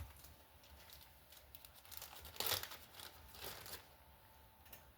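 Faint crinkling of a plastic parts bag being handled, with a louder crinkle about two and a half seconds in.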